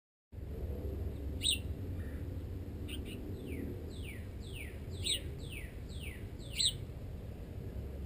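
Songbirds calling: a run of about six whistled notes, each sliding downward, repeated about every half second, with a few sharp high chips in between. A steady low rumble runs underneath.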